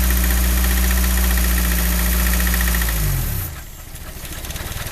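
1985 Nissan 720 pickup's engine running steadily on its first start-up; about three seconds in the revs drop and the sound falls away to a much quieter, rapid pulsing.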